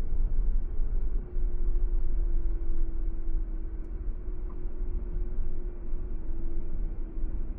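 Car driving along a paved road: a steady low road rumble with an even hum running through it.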